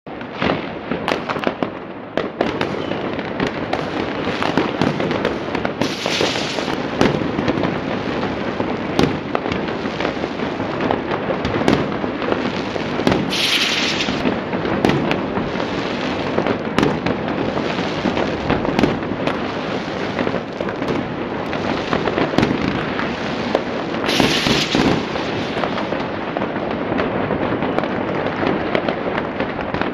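Fireworks display: a dense, continuous barrage of overlapping bangs and crackling, with three brief louder hissing bursts spread through it.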